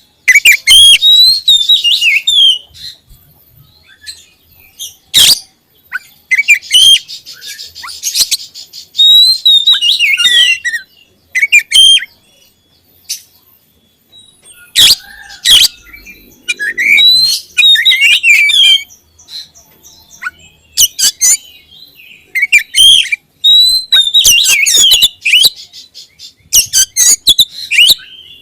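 Oriental magpie-robin (kacer) singing loudly in quick phrases of varied whistles, chirps and rapid trills, with short pauses between phrases.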